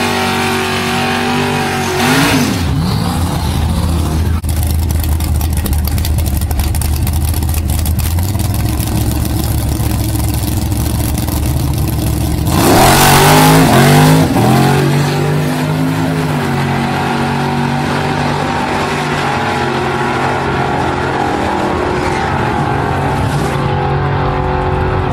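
Big-block V8 (a 496) of a 1972 Chevy Nova on open headers, running through a drag-race pass. It idles with a brief rev about two seconds in, then launches at full throttle about twelve seconds in with a loud, rising blast, and keeps running as the car heads down the track.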